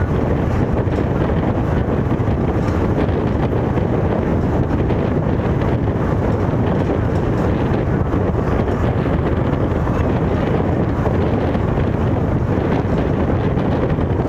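Steady low rumble of a moving train, with wind buffeting the microphone.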